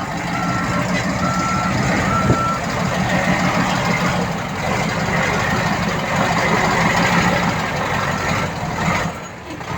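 Heavy diesel earthmoving machine running, with its reversing alarm giving three evenly spaced beeps in the first few seconds and one more near the end. The engine sound drops away shortly before the end.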